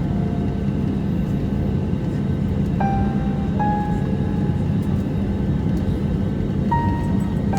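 Steady jet airliner cabin noise from the engines and airflow, heard from a window seat, with a few held musical notes sounding over it.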